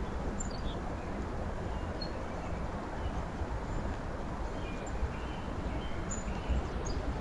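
Steady low outdoor rumble with faint, short bird chirps scattered over it, several of them in the later part.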